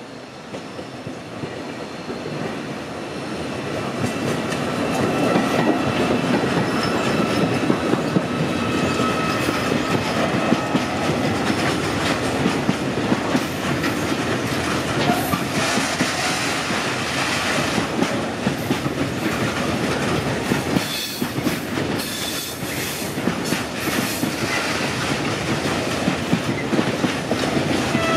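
Freight train of tarpaulin-covered wagons passing close by, its wheels clattering over the rail joints. The sound builds over the first few seconds as the train draws near, then holds steady as the wagons roll past.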